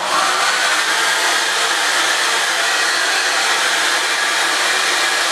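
Handheld hair dryer blowing steadily, used to dry a freshly bathed small dog while it is brushed; the sound stops suddenly near the end.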